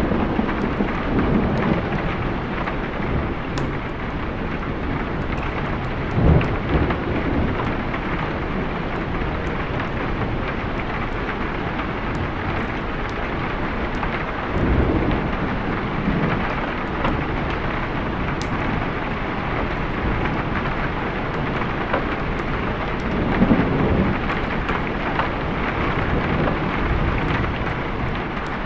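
Steady heavy rain, with low rolls of thunder rumbling up three times: about six seconds in, around the middle, and again near the end.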